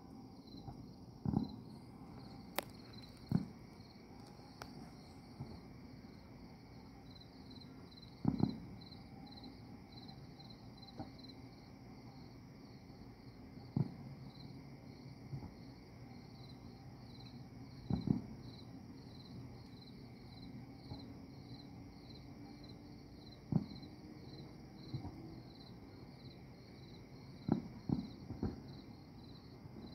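Distant fireworks going off as scattered sharp bangs every few seconds, with several in quick succession near the end, over the steady chirping of crickets.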